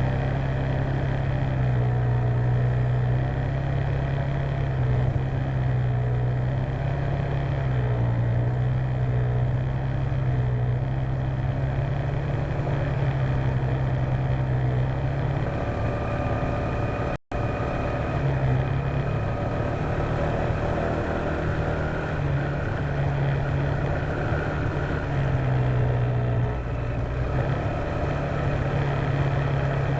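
Honda PCX150 scooter's single-cylinder engine running steadily under way, its pitch wavering slightly up and down, as heard by a dashcam on the moving scooter. The sound cuts out for an instant a little after halfway.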